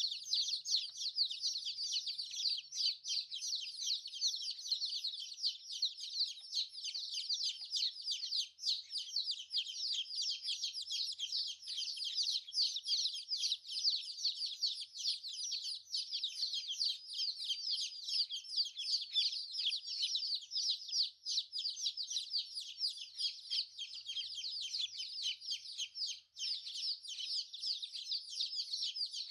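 A flock of young chicks peeping without pause, many short, high calls overlapping.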